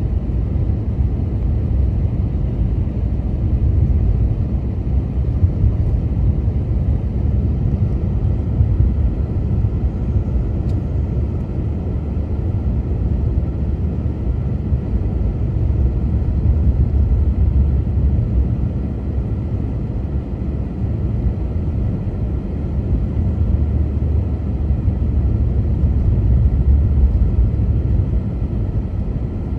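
A car driving on snow-covered streets: a steady low rumble of road and engine noise that swells and eases a little.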